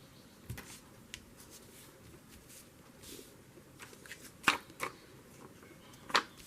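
Paper and sticker sheets being handled: faint rustling with a few sharp ticks and taps, the loudest about four and a half seconds in and again near the end.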